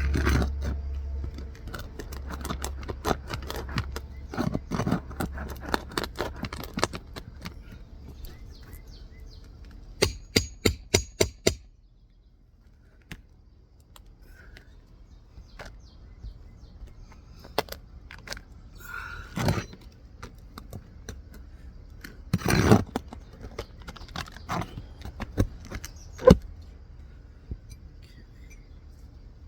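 Hand tools working loose an asphalt roof shingle: scattered clicks, knocks and scrapes, with a quick run of about six sharp taps, roughly four a second, about ten seconds in. A low hum underneath stops shortly after the taps.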